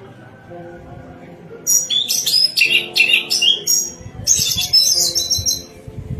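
Orange-headed thrush singing a loud run of rapid, varied high notes, starting about a second and a half in and lasting about four seconds, over soft background music.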